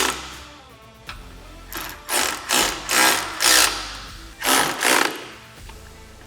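Screws being driven in with a power driver, run in about six short bursts, in two groups of three, with background music underneath.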